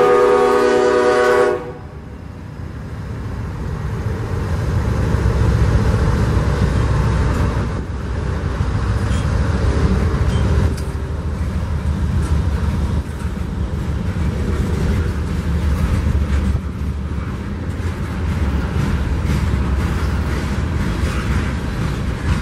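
A freight train's air horn sounds a chord of several notes and cuts off sharply about a second and a half in. After that comes the steady low rumble of diesel locomotives and loaded covered hopper cars rolling past close by, with scattered clicks from the wheels on the rails.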